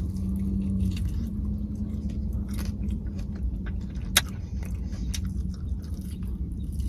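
A person chewing and biting into crispy hot-Dorito-coated chicken wings close to the microphone, with scattered crunches and a sharp click about four seconds in, over a steady low hum.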